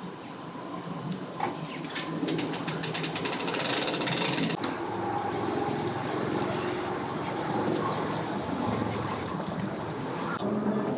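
An engine running steadily, with a rattling, clattering noise for about two and a half seconds starting about two seconds in.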